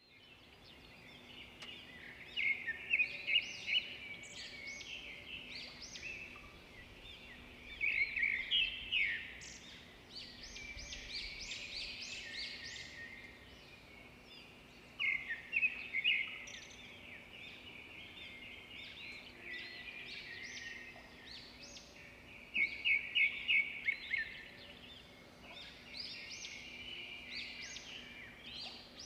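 Birdsong: small birds chirping and trilling in repeated short phrases, with louder bursts of rapid notes several times. A faint steady hum runs underneath.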